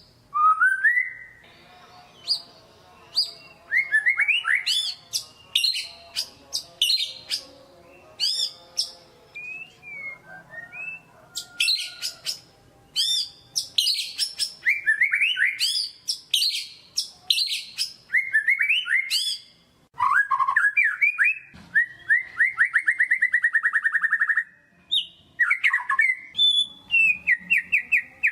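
White-rumped shama (murai batu) singing a long, varied song of rising whistles and quick sharp notes, breaking into a fast rattling trill about three-quarters of the way through.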